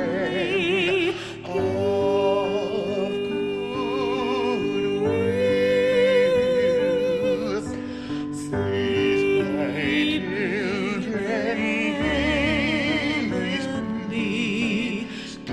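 A solo voice singing long held notes with wide vibrato over a sustained instrumental accompaniment.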